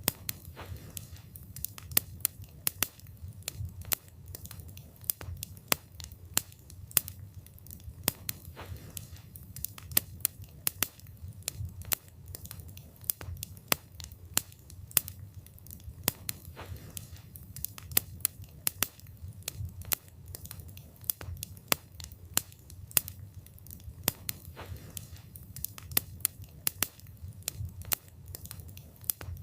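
Wood fire burning with a low steady rumble and irregular sharp crackles and pops of the wood, several a second.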